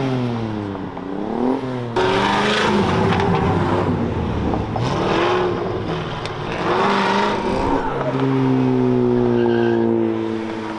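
Car engine revving up and down hard, then about two seconds in a sudden louder stretch of hard acceleration with tire squeal. Near the end it settles into a steady, slowly falling engine note.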